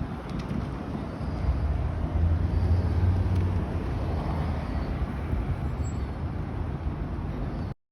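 Car engine running with a low exhaust hum that swells between about two and four seconds in, then cuts off suddenly near the end.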